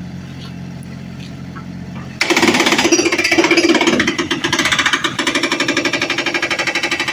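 An excavator's engine runs steadily. About two seconds in, a hydraulic breaker hammer starts up loudly with rapid, even blows and keeps pounding.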